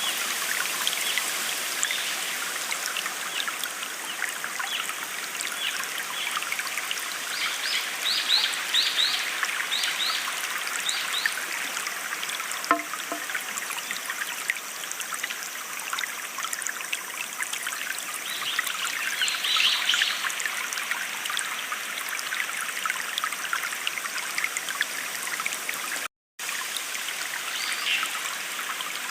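Small stream trickling and burbling steadily, with birds giving short high chirps now and then, a quick run of them about a third of the way in. The audio drops out for a split second near the end.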